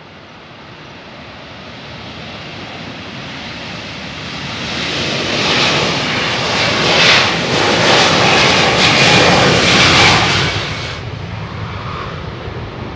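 Twin jet engines of a Boeing 767-330ER airliner growing steadily louder as it approaches, running loudest with a hissing, whining edge for several seconds in the middle, then fading as it moves away.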